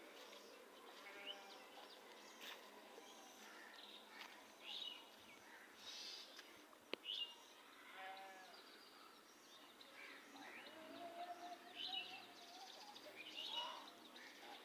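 Faint outdoor animal calls: scattered short high chirps with a few lower calls, and one longer drawn-out call about ten to twelve seconds in. A single sharp click about halfway through.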